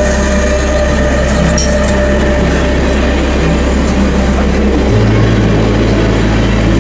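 A Bombardier TRAXX class 186 electric locomotive passing close by, its steady electric whine fading as it goes, then passenger coaches rolling past with steady wheel-on-rail noise. A low hum steps suddenly up in pitch about five seconds in.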